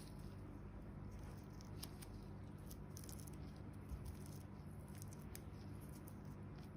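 Faint, scattered little crackles and rustles of hands working the dry, peeling dead skin of a foot after a peel mask, over a steady low hum.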